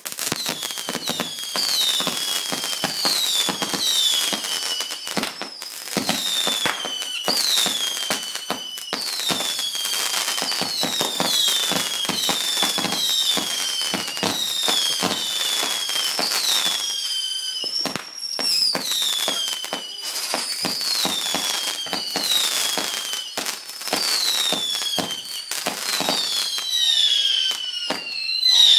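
Fireworks going off in a continuous barrage: dense crackling pops with many overlapping whistles, each falling in pitch over about a second. There is a brief lull about 17 to 18 seconds in.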